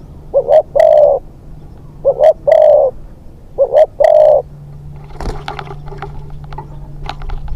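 Spotted dove cooing: three phrases of two short notes and one longer note, about a second and a half apart. The cooing stops about halfway through and is followed by faint scattered clicks and rattling.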